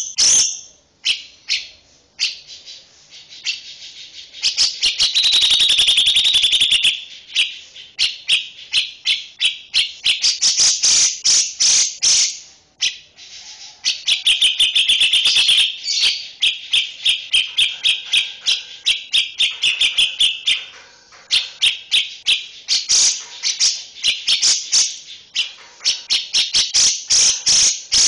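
High-pitched animal chirping: rapid clicks and trills in repeated bursts with short pauses between, from a recorded 'master' call track for training songbirds.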